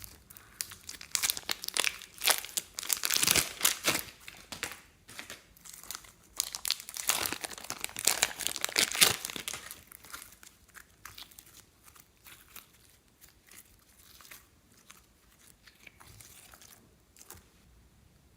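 Plastic piping bags crinkling and crackling as they are handled and squeezed: dense, busy crackles, loudest in two stretches in the first half, then dying down to scattered faint crinkles.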